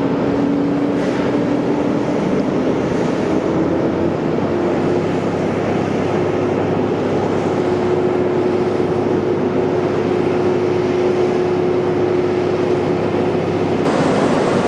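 An engine running steadily with a hum that rises slowly in pitch over the first several seconds and then holds, under constant outdoor noise; the sound changes abruptly near the end.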